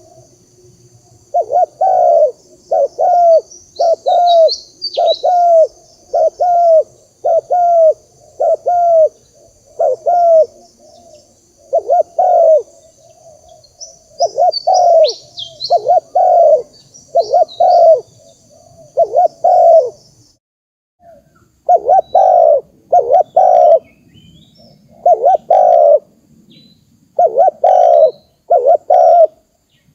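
Spotted dove cooing: a long series of low, loud coos in runs of two to four notes, with short breaks between runs. Small birds chirp faintly and high in the background, and a steady high hiss behind them cuts off suddenly about two-thirds of the way through.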